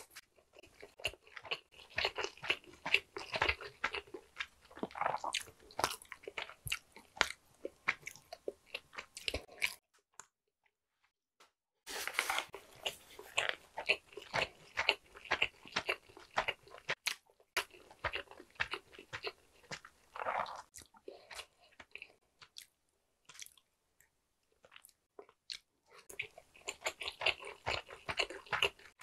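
A person chewing and crunching food in bouts of crisp, crackly bites, with a few seconds of silence between bouts.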